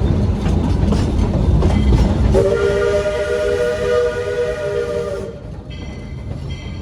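Train cars rolling with a loud rumble and rattle. About two and a half seconds in, the locomotive's whistle sounds a steady chord of several tones for about three seconds and cuts off. Fainter, higher tones follow in short pieces.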